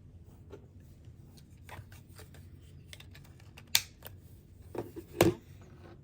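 Small plastic parts being handled and clicked together on an electric shaver's housing: a scatter of light clicks and rubbing, with two sharper clicks, one just under four seconds in and a louder one about five seconds in.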